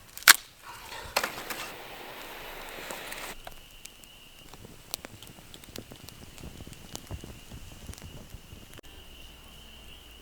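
A single sharp crack near the start, then a campfire crackling with scattered small pops, with a brief hiss in the first few seconds.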